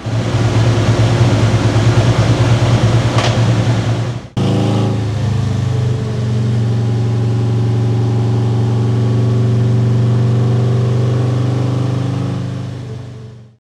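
Harley-Davidson Milwaukee-Eight 107 V-twin running at idle through an aftermarket exhaust, with an uneven, pulsing beat. About four seconds in it breaks off sharply and comes back idling more steadily, then fades out at the end.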